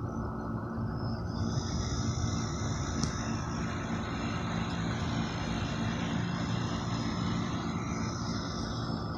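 A road vehicle passing by over a steady background rumble of traffic. Its tyre hiss swells about a second and a half in, holds, then fades near the end.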